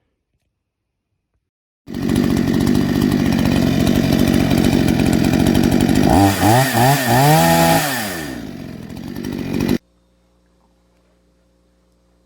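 PROYAMA 62cc two-stroke chainsaw running loud. About four seconds after it starts, the throttle is blipped several times, the engine pitch rising and falling. It then drops back, picks up once more, and cuts off abruptly near the end.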